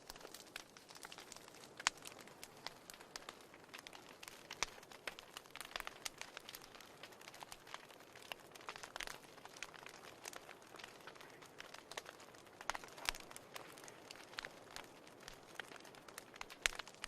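Wood fire burning in a fireplace, crackling and popping irregularly over a soft hiss, with a few sharper pops.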